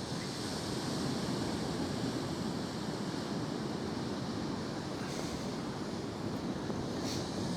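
Steady wash of sea waves on the shore, with wind.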